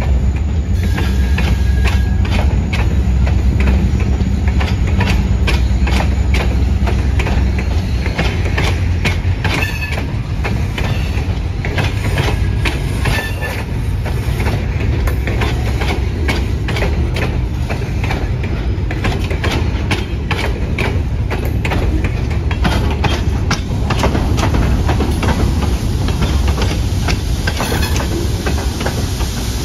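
Freight train of loaded ballast hopper cars rolling past, the wheels clicking over the rail joints throughout. For the first several seconds the low diesel rumble of the two GP40-2 locomotives' EMD engines sits under it.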